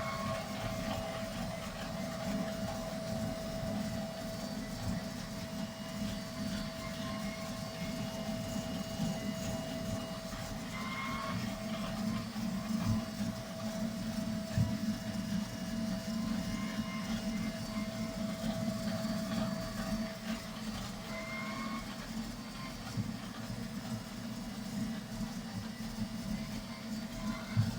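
Vacuum cleaner running steadily with a constant motor whine, working along carpet edges and stairs. A few brief knocks come through, about halfway and near the end.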